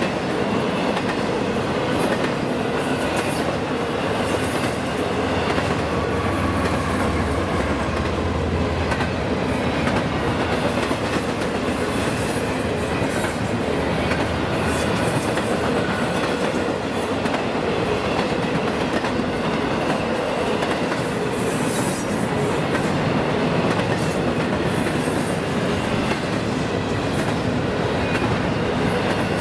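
Train cars rolling past on the track: a steady, unbroken rumble and clatter of steel wheels on the rails.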